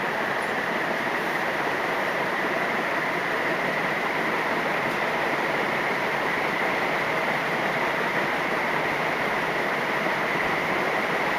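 1983 Canarm 56-inch ceiling fan with three curved metal blades running near full speed, a steady loud rush of air as it finishes its slow spin-up.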